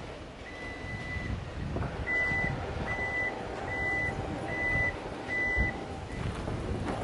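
Vehicle reversing alarm beeping at a steady pitch: six beeps a little under a second apart, the first one longer, over the low rumble of the vehicle.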